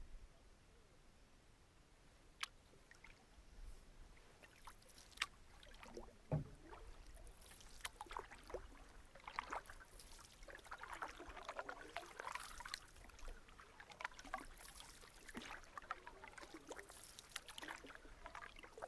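Canoe paddles pulling through lake water, with faint splashing and dripping that grows busier after about seven seconds. A few sharp knocks come in the first six seconds, the loudest a dull knock about six seconds in.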